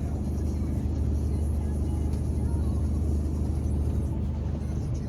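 Mercedes-Benz Actros 1948 truck's diesel engine idling with a steady low hum.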